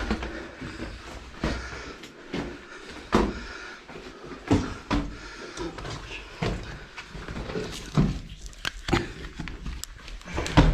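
Irregular knocks, scuffs and scrapes of people scrambling and crawling over rock inside a small cave, echoing in the enclosed space.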